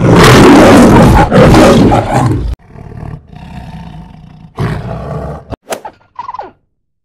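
Lion roaring: one loud, full-throated roar followed by a series of quieter grunts. A few short calls falling in pitch come near the end.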